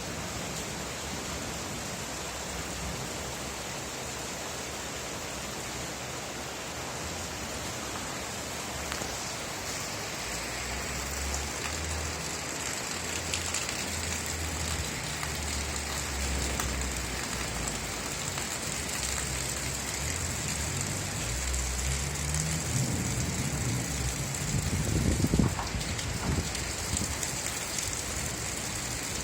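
Steady rain with a low rumble of thunder that comes in about a third of the way through and swells to its loudest near the end.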